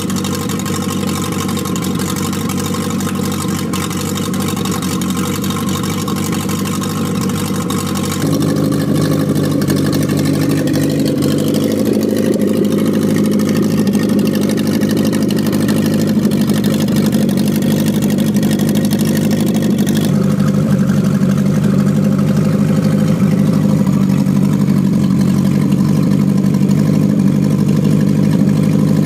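Engine running steadily with an even, unchanging note, getting louder about eight seconds in and shifting in tone again around twenty seconds in.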